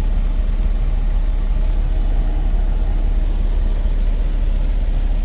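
Semi truck's diesel engine running steadily with a low, even rumble.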